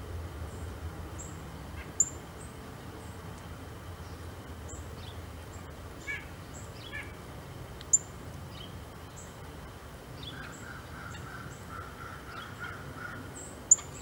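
Wild birds calling outdoors: short, high, sharp chirps repeated throughout, three of them loud. Near the end comes a run of lower, quickly repeated calls.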